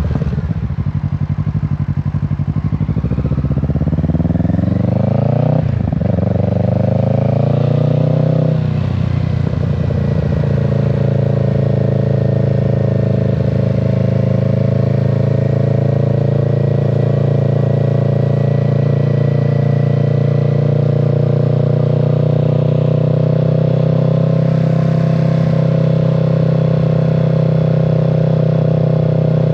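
Kawasaki Z650's parallel-twin engine accelerating, its revs rising, dropping briefly at a gear change about six seconds in, and rising again, then holding a steady note while cruising.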